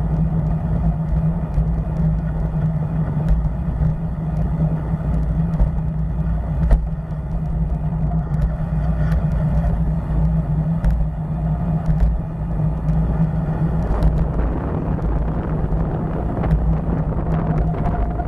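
Motorcycle engine running steadily while riding, a constant low drone mixed with wind rumble on the microphone.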